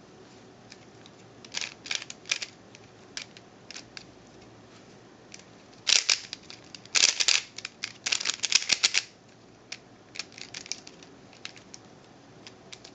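A Rubik's cube being turned by hand: quick runs of plastic clicks and clacks as the layers snap round, densest and loudest in a burst about six to nine seconds in, with sparser turns before and after.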